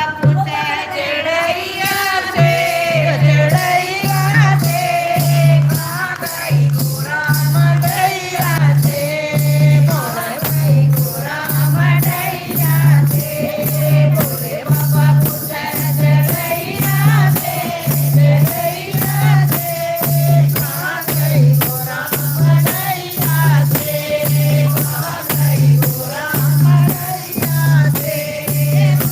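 A Hindi devotional bhajan sung by voices in a group, over a steady low drum beat about once a second and regular jingling percussion.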